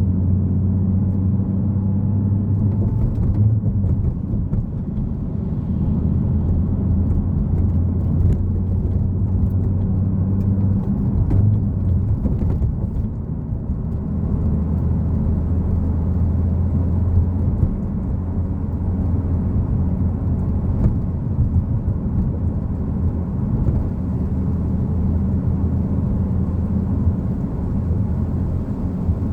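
Nissan Fairlady Z Z34's 3.7-litre V6 running at a steady cruise: a low, even engine drone over road noise. The drone eases off briefly about eleven seconds in and comes back.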